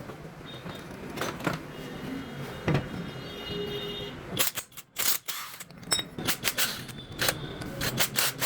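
Sharp clicks and knocks from tools and engine parts being handled during engine disassembly: a few single knocks at first, then a quick run of them from about halfway through.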